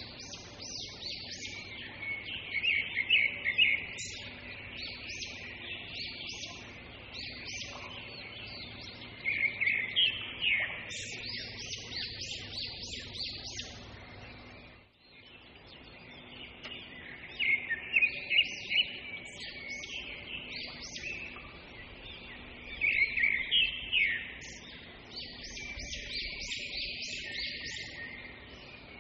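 Small birds chirping, with repeated bursts of quick chirps every few seconds over a low steady background hum.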